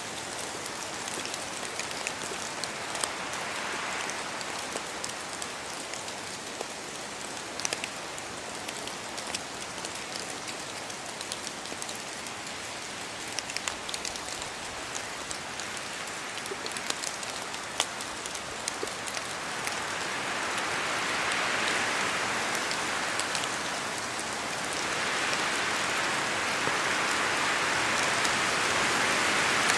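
Steady rain falling through forest trees, with sharp drops ticking throughout. The hiss swells louder twice in the second half.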